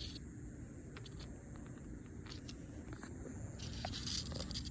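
Low, unsteady rumble of wind on the microphone outdoors, with a few faint clicks and scuffs.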